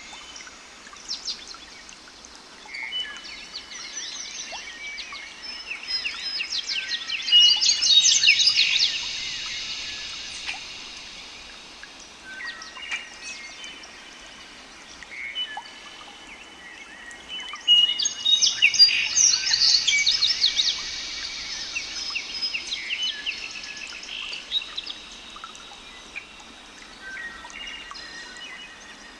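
Many small songbirds chirping and trilling together, swelling twice into loud bursts of song.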